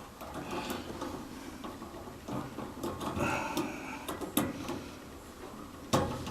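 Hand tools and metal parts clicking, scraping and knocking irregularly while a part is fastened back on a gas water heater, with a sharp knock near the end.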